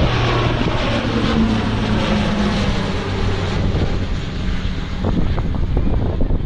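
Bombardier DHC-8-Q400 turboprop taking off, its propellers making a steady low drone over engine noise. Strong wind buffets the microphone, more so from about five seconds in.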